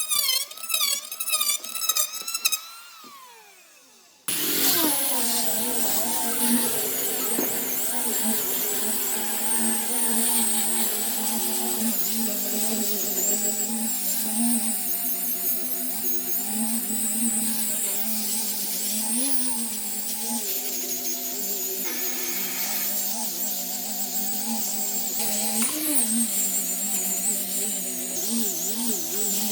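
A handheld electric power tool, such as a grinder or sander, running steadily on wood from about four seconds in, its pitch wavering as the load changes. Before that, a short rhythmic music passage fades out.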